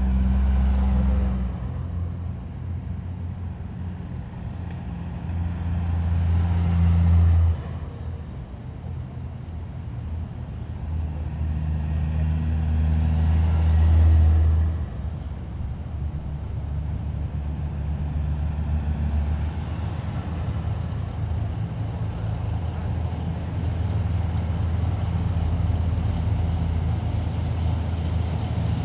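Heavy military vehicles' engines in a passing column, a continuous low drone. It swells as vehicles come by, loudest about 7 and 14 seconds in, and each of those two peaks drops off suddenly.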